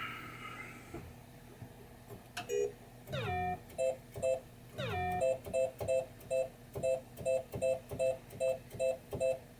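Williams Funhouse pinball machine's sound board playing electronic game sounds through its speaker: a short blip, two falling swoops, then a quick run of two-note beeps at about three a second.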